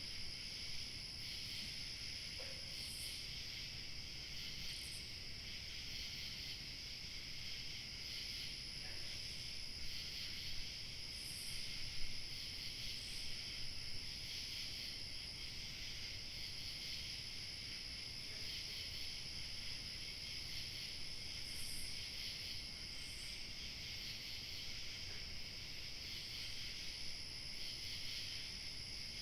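Dense, steady chorus of crickets chirping, with a higher, thinner insect trill that breaks off and starts again several times, over a faint low rumble of light wind.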